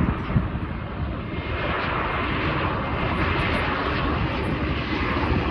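Jet engines of an Airbus A320-family airliner passing overhead on its landing approach: a steady rushing engine noise over a low rumble, growing louder about a second and a half in.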